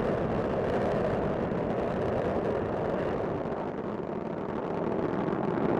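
Space Shuttle rocket engines and solid rocket boosters thundering during ascent: a steady, dense low rumble.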